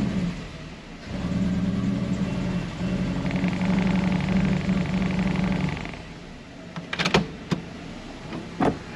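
1998 Toyota Tercel's four-cylinder engine, misfiring on cylinder 3, held at raised revs in gear against the brake, giving a steady drone. It dips briefly about a second in and falls back to a quieter idle around six seconds, followed by a few sharp clicks near the end.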